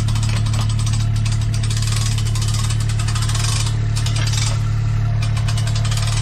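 Side-by-side utility vehicle's engine idling with a steady low hum.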